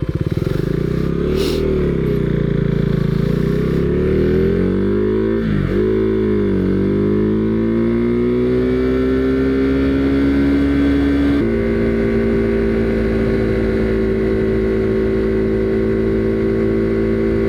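Husqvarna Svartpilen 401's single-cylinder engine pulling away and accelerating up through the gears, its pitch rising with two gear changes, about five seconds in and about eleven seconds in, then running steadily at cruising speed.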